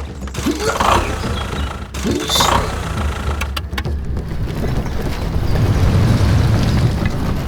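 A vehicle engine rumbling steadily, with scattered knocks and rattles over it.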